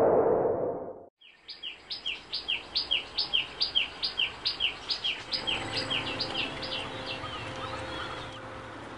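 A loud rushing noise cuts off abruptly about a second in. Then a songbird sings a rapid series of repeated high, downward-slurred paired chirps, about three a second, which gradually fade out.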